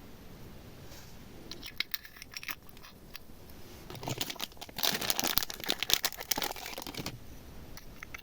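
Close-up crinkling and crackling from materials being handled: a few scattered crackles about two seconds in, then a denser, louder run of crackles lasting about three seconds from around four seconds in.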